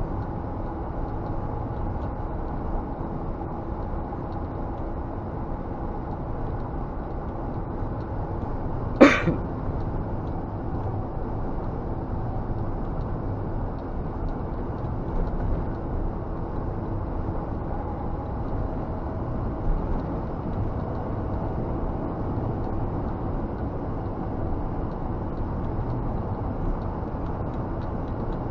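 Scania G460 truck's 13-litre straight-six diesel engine running under way, heard inside the cab as a steady low rumble with road noise. One sharp knock about nine seconds in, the loudest sound.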